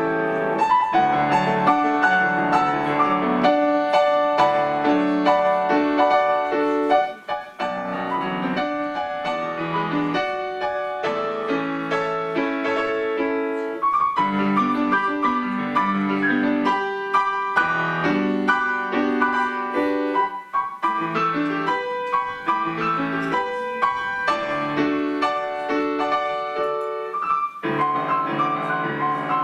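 Grand piano being played: a lively piece of many quick notes, with a brief break about seven seconds in.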